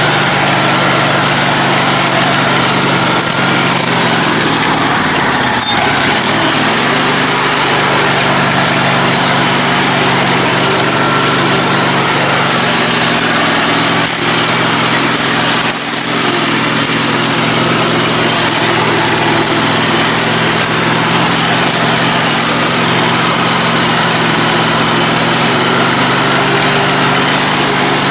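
Engine of a lifted, modified riding lawn mower running steadily while it drives a trail.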